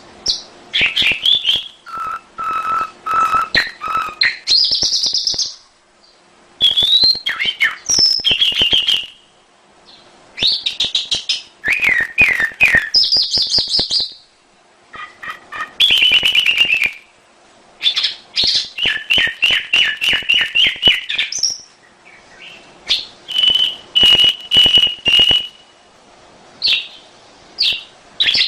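Domestic canary singing: phrase after phrase of fast trills and rapidly repeated chirping notes, some high whistled notes, broken by brief pauses.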